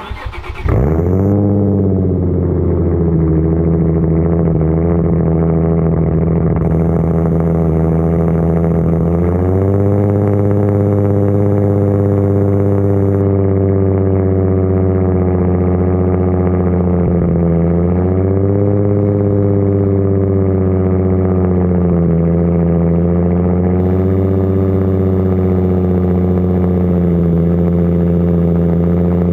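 Nissan 350Z's 3.5-litre V6, fitted with Tomei aftermarket parts, cranking briefly and catching on a cold start, flaring up, then settling into a loud, high cold idle. The idle steps up about nine seconds in and dips and recovers slightly a few times.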